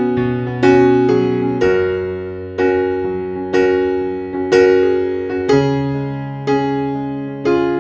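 Background music: a keyboard with an electric-piano sound plays slow chords, a new chord struck about once a second and fading before the next.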